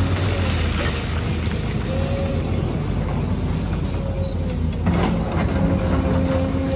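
An excavator's engine running steadily with a low rumble and a wavering hum, and a couple of sharp knocks about five seconds in.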